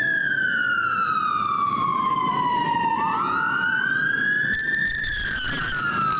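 Several police motorcycle sirens wailing together, each sweeping slowly up and down in pitch and slightly out of step with the others.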